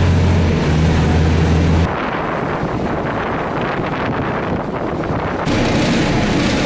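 Riding in a moving passenger train with its windows open. A steady low engine drone is heard for about the first two seconds, then rushing wind and rolling noise. The sound changes abruptly twice, at cuts.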